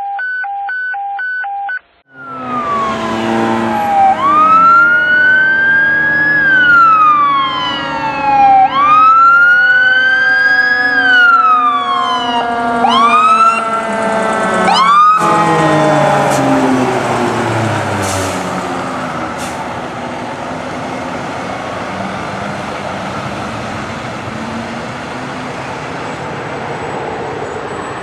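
Fire apparatus siren: an electronic wail rises and falls twice, then switches to quicker yelps, over the low falling moan of a Federal Q mechanical siren winding down. From about halfway the sirens give way to engine and road noise from the passing truck, with a few sharp clicks. It opens with a couple of seconds of pulsed electronic beeping.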